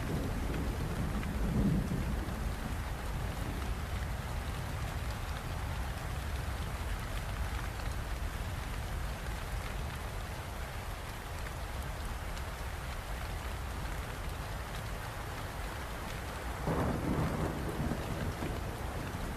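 Steady rain falling, with low thunder rumbling underneath that swells louder about a second and a half in and again near the end.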